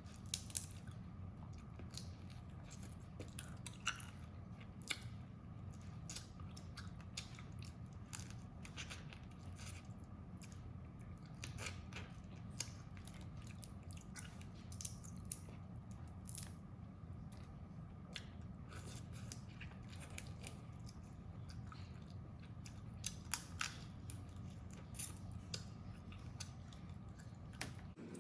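Crab being eaten: irregular sharp cracks and crunches of shell being bitten and chewed, scattered all through, over a steady low hum.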